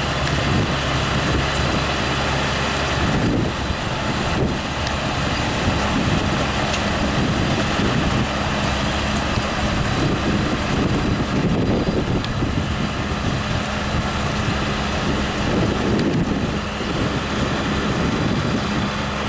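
John Deere 7R-230 tractor engine running steadily under load while pulling a Grimme EVO-290 twin-row potato harvester, with the harvester's machinery adding a continuous rattling noise.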